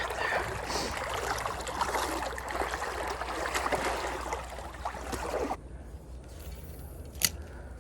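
Shallow creek water splashing and sloshing around someone wading across, stopping abruptly about five and a half seconds in; a single sharp click near the end.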